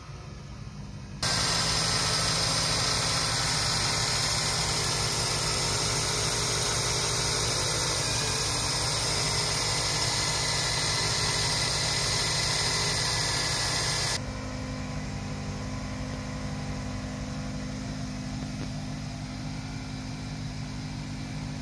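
2001 Chevy Prizm's 1.8-litre four-cylinder engine idling steadily. About a second in it becomes much louder with a strong steady hiss over the open engine bay. Near two-thirds through it drops back to a quieter, even hum near the back of the car.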